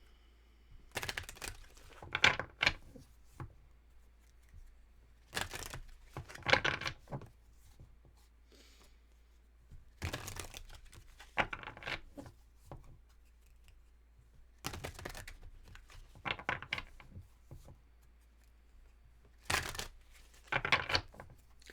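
A deck of tarot cards being shuffled by hand, in five short bouts of papery riffling spaced a few seconds apart.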